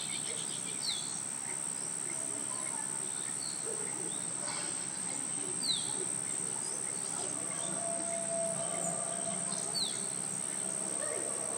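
Outdoor nature ambience: a steady high insect drone, with three short falling bird calls about a second in, near the middle and near the end.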